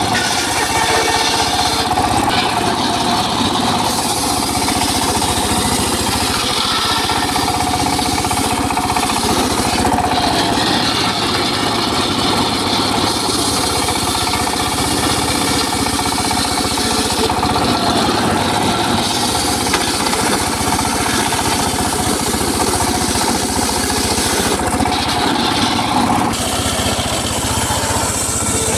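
Engine-driven circular saw running steadily while sawing teak wood. A high hiss over the engine's constant tone fades briefly every several seconds.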